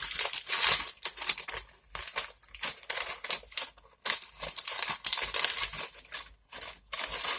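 Paper bags crinkling and rustling in irregular bursts as one bag is pushed down inside the other.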